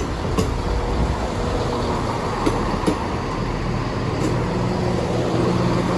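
Class 170 Turbostar diesel multiple unit pulling into the platform, its diesel engines running with a steady hum, with a few sharp clicks from the wheels as it rolls in.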